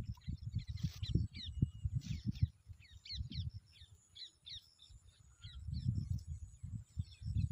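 Birds calling at the waterside: a rapid series of short, high, downward-sliding notes, over an irregular low rumbling that is loudest near the start and again about six seconds in.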